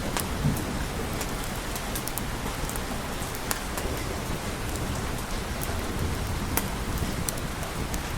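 Steady rain, a dense even hiss, with scattered sharp ticks. The tail of a low thunder rumble dies away in the first moments.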